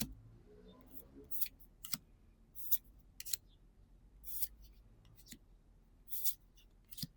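Trading cards being handled and slid one at a time off a stack: about ten short, separate papery swishes at uneven intervals.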